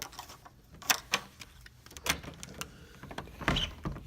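A series of short sharp knocks and clicks, like objects being handled or moved; the loudest two come close together about a second in, followed by duller knocks later on.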